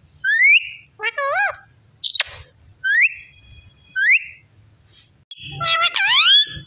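Parrot whistling: a series of short rising whistles, about one a second, with a wavering call of several pitches about a second in, a quick falling sweep just after, and a longer warbling call near the end.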